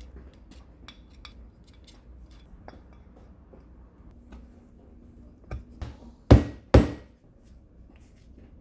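Metal parts and hand tools being handled on a workbench: scattered light clicks and clinks, then two loud knocks about half a second apart near the end.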